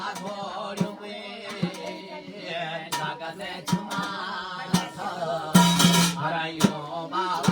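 Jagar devotional folk music: a male voice singing over drum strokes that fall about once a second.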